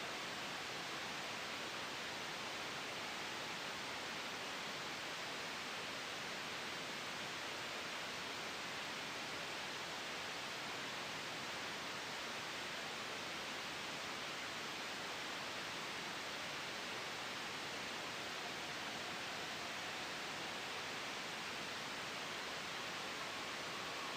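Steady white noise: an even, unchanging hiss with no gusts or breaks.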